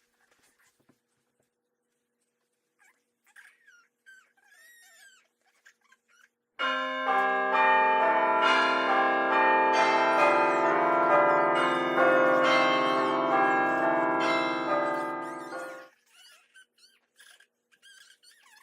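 Bells chiming: many sustained, overlapping ringing tones that shift every second or so, starting about six and a half seconds in and stopping after about nine seconds. Before them, a few faint high squeaks.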